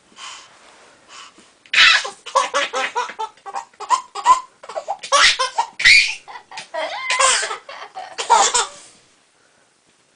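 A baby laughing hard in a long run of short bursts, starting about two seconds in and stopping about a second before the end.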